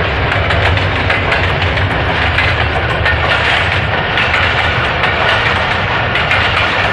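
Pakistan Railways train running along the track: a steady, loud noise of wheels on rail with many sharp clicks and rattles.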